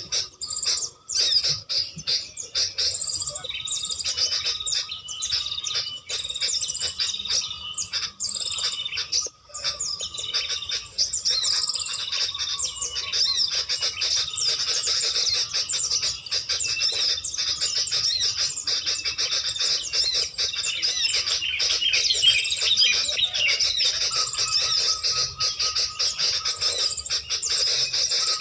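Small birds chirping and calling without a break, a dense run of quick high notes, with a thin steady whistle-like tone underneath for much of the time.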